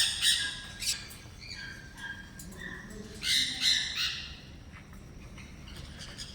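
Birds squawking with harsh calls, one near the start and a louder cluster of two or three about three seconds in, with faint chirps between. The last two seconds are quieter.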